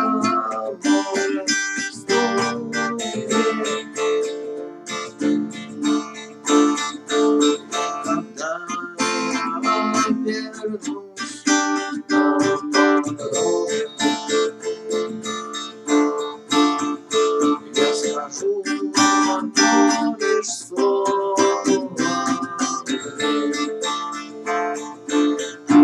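Acoustic guitar played with a rhythmic strum of chords. A last strong strum at the very end is left to ring out.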